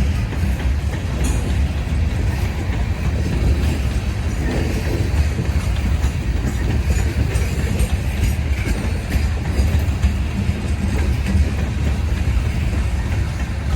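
Freight train rolling slowly past, with a steady low rumble of wheels on rail and a light clickety-clack over the joints.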